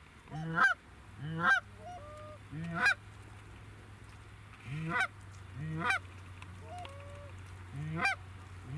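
Canada-goose-style honks: about eight loud two-note calls at uneven intervals, each starting low and breaking sharply up in pitch before dropping away, with a few fainter honks in between.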